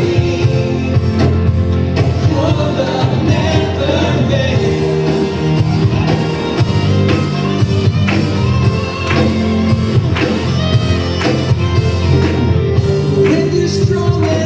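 Live worship band playing a song with singing, drums keeping a steady beat.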